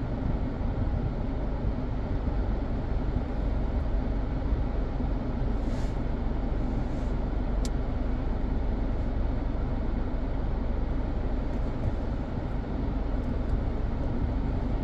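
Steady engine and road noise of a Mazda 3 heard from inside the car's cabin as it drives.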